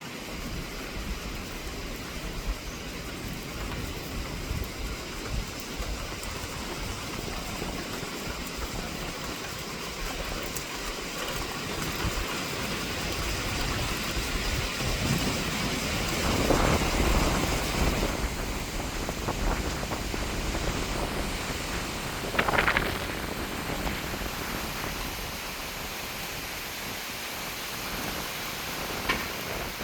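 Very strong wind blowing steadily through trees, swelling in a gust about halfway through. About three-quarters of the way in, a tree gives one short, sharp crack, the loudest sound here.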